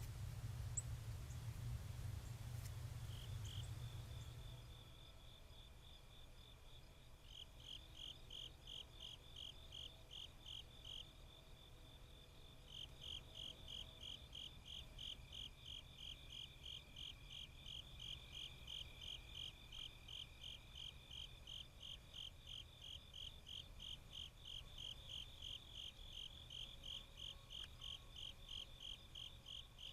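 Faint insect chirping in a steady pulsed rhythm, about three chirps a second. It starts a few seconds in, breaks off briefly, and runs steadily from about twelve seconds on. A low hum fades out in the first few seconds.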